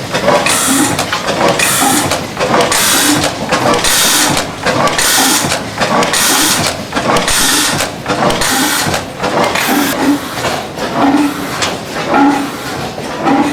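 Antique engine running slowly, with a hissing exhaust chuff about once a second.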